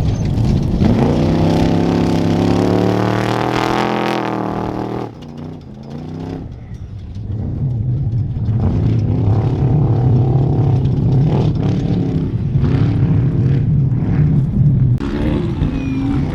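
Off-road race vehicle engines at high revs: one engine revs up, its pitch climbing for about four seconds before cutting off abruptly. After a short lull, another engine runs hard and fairly steadily from about eight seconds in.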